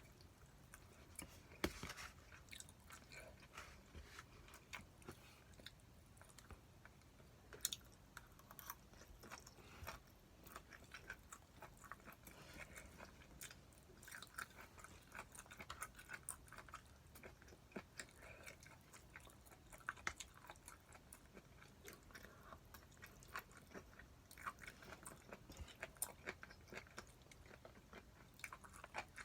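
Quiet chewing and eating sounds of a person working through a meal of jeyuk bokkeum (spicy stir-fried pork), soft wet mouth noises with many small irregular clicks and a few sharper clicks scattered throughout.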